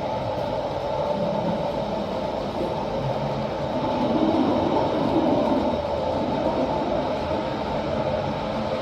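Steady mechanical running noise with a hum, swelling a little about halfway through.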